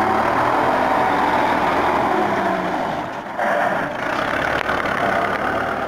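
Tractor engine running steadily, its tone shifting a little about halfway through.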